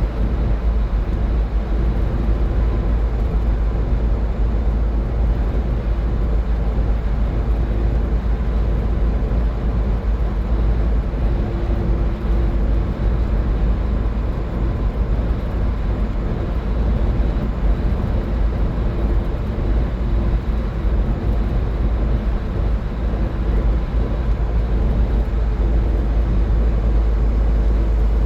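A car driving at highway speed: steady tyre and engine noise with a deep rumble and a faint steady hum.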